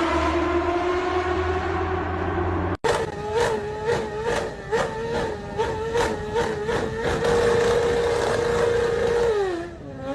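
Engine revving at high pitch. It holds a slowly climbing rev, cuts off abruptly just before 3 s, then gives a run of quick throttle blips, holds a steady high rev, and drops in pitch near the end.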